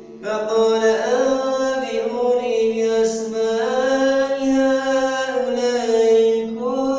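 A solo man's voice reciting the Quran in melodic tajwid style, drawing out long held vowels with slow, ornamented rises and falls in pitch. There is a short breath pause right at the start.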